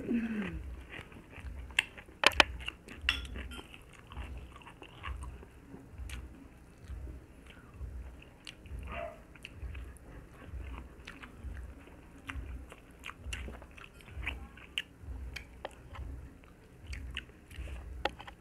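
Close-miked chewing of pork and rice eaten by hand. Soft chews come in a steady rhythm, about three every two seconds, with wet mouth smacks and sharp crisp clicks, the loudest a couple of seconds in.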